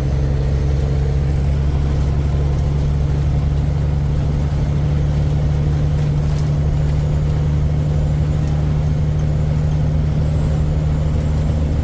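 Kenworth K100E cabover truck's diesel engine running steadily, heard from inside the cab: a low, even drone.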